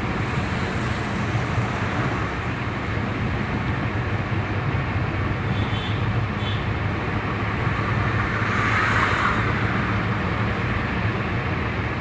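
A car being driven: a steady low engine hum under continuous tyre and road noise, with a short louder swell of rushing noise about nine seconds in.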